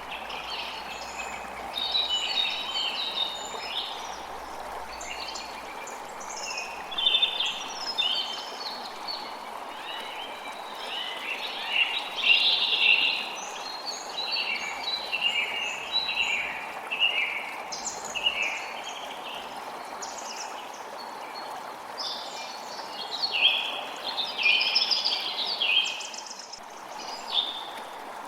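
Birds singing and chirping in many short, quick phrases over the steady rush of a flowing creek.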